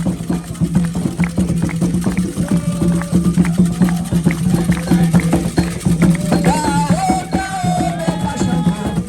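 Ceremonial chant music: hand drums beating a fast, steady rhythm, with group singing of a chant for Xangô growing clearer about six seconds in.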